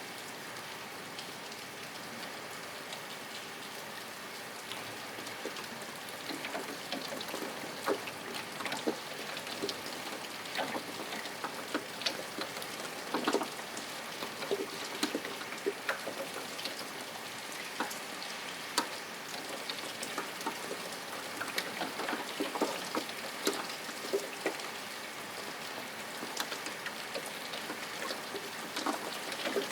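Steady rain with individual drops tapping on a surface, the taps becoming more frequent about five seconds in.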